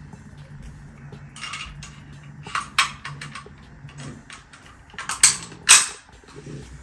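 Steel slide of a CZ 52 pistol being fitted back onto the frame and worked by hand: scattered metal clicks and scrapes, then two loud sharp clacks about half a second apart a little after five seconds in.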